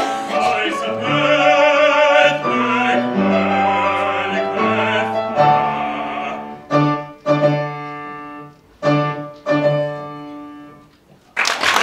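Operatic singing with strong vibrato over piano accompaniment, ending about five seconds in. The piano then plays the closing chords, several separate loud chords, and applause breaks out just before the end.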